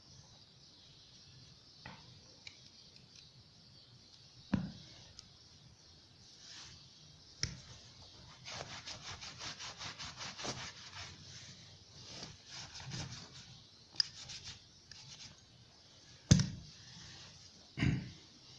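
Quick back-and-forth rubbing strokes on a rusty door-lock mechanism, about five a second for a few seconds in the middle, then a shorter run. Several sharp knocks of metal parts being tapped or set down come before and near the end.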